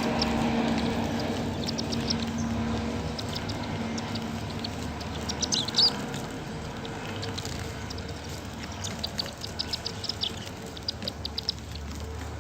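Sparrows chirping in quick, short, high calls that come in clusters, over a low steady hum that fades out a few seconds in.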